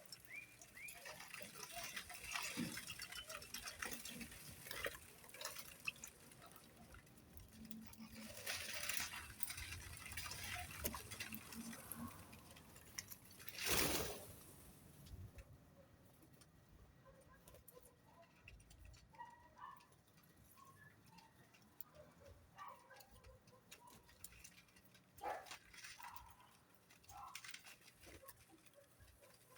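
Faint scratching and pattering of small birds moving about, with a few soft chirps and one louder brief rustle about halfway through.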